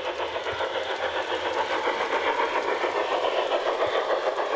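Large-scale garden railway model train running on outdoor track, a steady rolling clatter.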